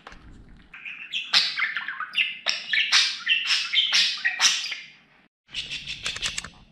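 Budgerigar warbling: a fast run of high chirps and twitters that breaks off about five seconds in, followed by a few short clicks and chirps.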